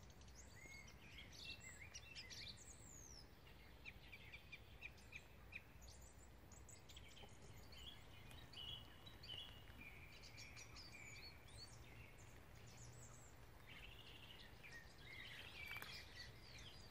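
Faint birdsong from several small birds: short chirps and quick whistled notes, scattered through the whole stretch, over a steady low background rumble.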